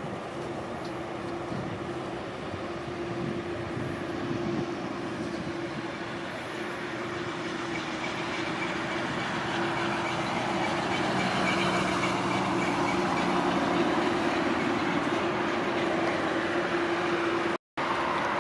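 Jet airliner engines running at an airport runway: a steady hum with a high whine, growing louder over several seconds. The sound drops out for a moment near the end.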